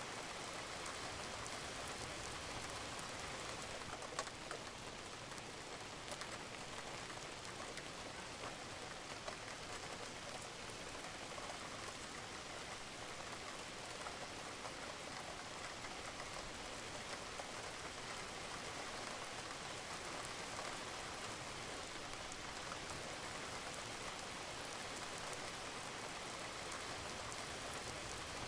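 Steady rain falling on a roof, an even hiss with scattered individual drop taps.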